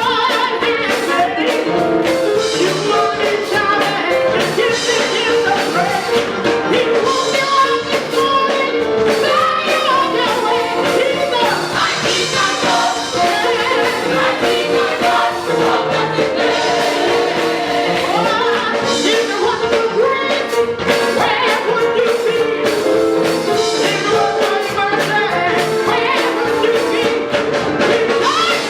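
Gospel choir singing with a live band: drums, tambourine and instruments playing an upbeat praise song.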